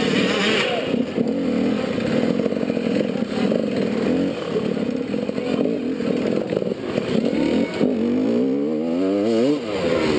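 Enduro motorcycle engine heard from on the bike, revving up and down as it is ridden. About eight seconds in it climbs steadily in pitch, then drops back sharply near the end.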